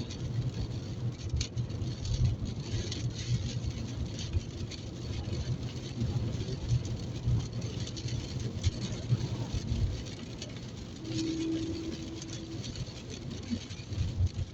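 Car cabin while driving in heavy rain: a steady low rumble from the engine and tyres on the wet road, with rain hissing and pattering on the roof and windscreen.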